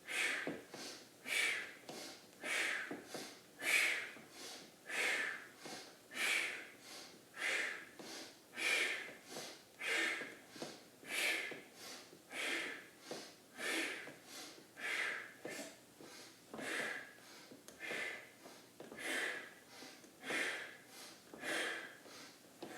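A person breathing hard and rhythmically, in and out through the nose, about one breath sound every second and a bit, paced with a rocking exercise on a wobble chair.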